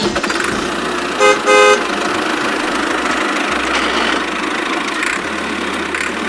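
Vehicle engine running steadily, with two short horn honks a little over a second in.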